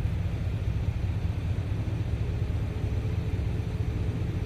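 Car engine running at low speed: a steady low rumble with no break.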